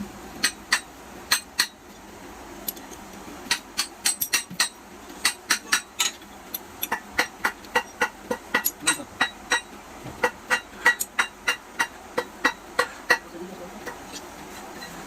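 Repeated light metallic taps and clinks, irregular at a few per second and sometimes in quick pairs, from hand tools striking the metal parts of a motorcycle engine being assembled. They thin out near the end.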